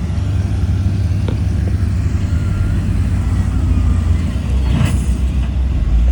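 Heavy diesel engine of earthmoving machinery running steadily with a deep, low rumble. About five seconds in, a brief sharp noise cuts across it.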